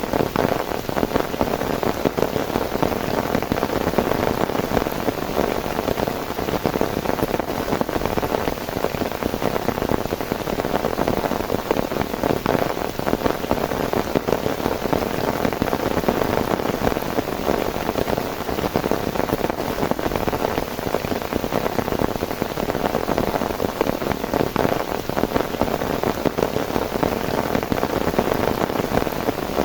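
Heavy rain falling steadily, a dense, even patter of drops hitting a surface.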